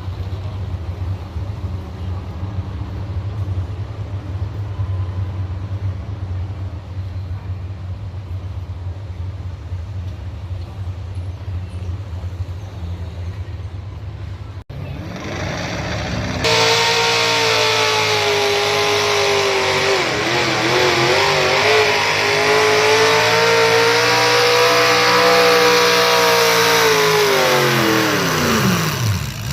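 A steady low engine rumble. Then, after a break about halfway, a truck-pulling engine runs at full throttle at a high, wavering pitch, and its pitch drops sharply near the end as the throttle comes off.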